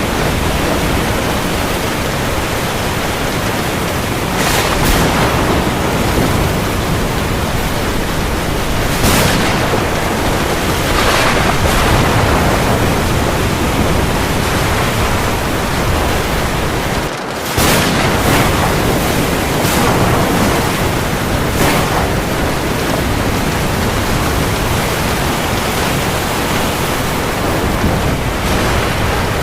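Heavy rain falling steadily as a dense hiss, with brief swells every few seconds. The sound drops for a moment about 17 seconds in.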